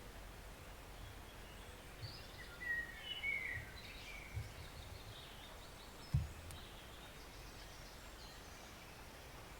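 Faint steady rush of a forest stream, with small birds chirping briefly a few seconds in. A few dull low thumps, the loudest about six seconds in.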